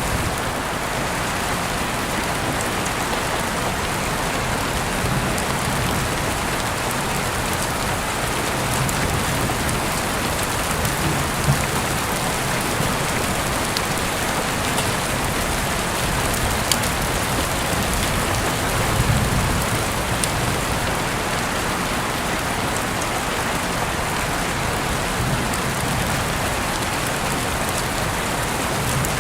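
Heavy rain falling steadily, a dense even hiss with scattered sharper drop ticks and a few low swells.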